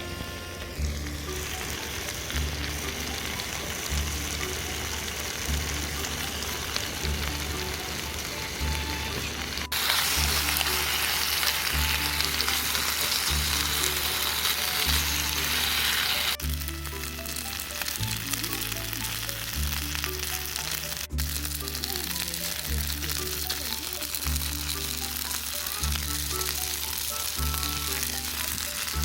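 Food sizzling in a hot pan, under background music with a steady bass beat. The sizzling grows much louder and hissier for about six seconds, starting about ten seconds in, then drops back.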